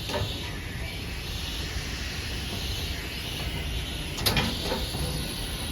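Steam locomotive moving slowly with a steady hiss of steam, and one sharp clank about four seconds in.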